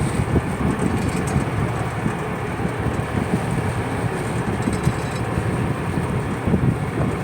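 A purse seine fishing boat's engine running steadily, a dense low rumble with no breaks.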